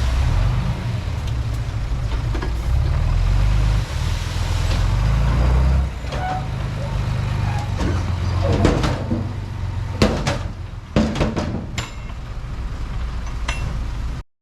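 Bulldozer's diesel engine running under load, a steady low rumble that eases a little about halfway through, with several sharp knocks in the second half. The sound cuts off abruptly just before the end.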